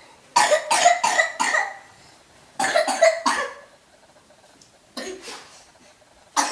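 A person coughing in two fits of several quick coughs each, with a fainter single cough about five seconds in.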